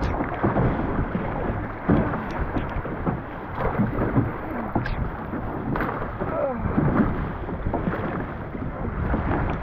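Wind buffeting the microphone and short waves slapping and washing against the hull of a small centreboard dinghy being rowed into an onshore wind. The noise surges unevenly, with a few sharp knocks.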